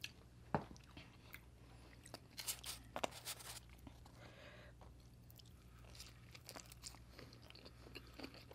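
Close-miked eating of pizza with a stuffed garlic-knot crust: a few crisp bite crunches, clustered about two to three and a half seconds in, then quieter chewing.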